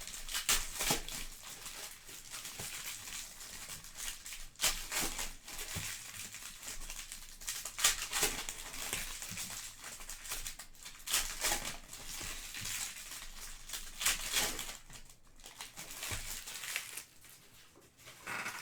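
Trading-card box and pack wrappers crinkling and tearing as they are opened, in irregular rustling bursts.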